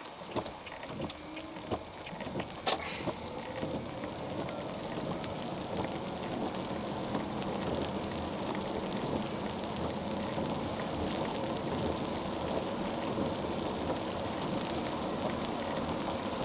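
Toyota Esquire minivan on the move: a series of sharp knocks in the first few seconds, then a steady road and tyre noise that grows louder. The knocks are the running noise that the owner ties to the shock absorbers.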